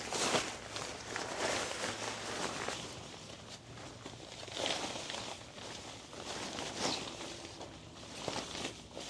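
Irregular scuffing and rustling steps, one every second or two.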